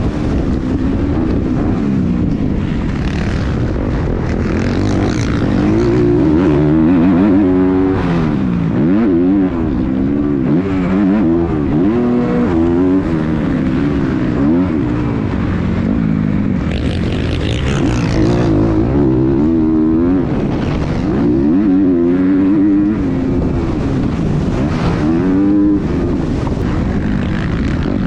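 Several dirt bike engines racing on a motocross track, their pitch rising and falling over and over as riders work the throttle and shift gears.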